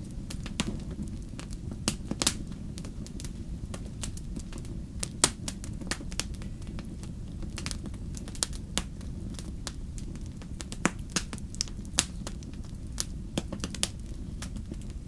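Campfire burning with a steady low rumble and frequent sharp, irregular crackles and pops, the loudest pop about five seconds in.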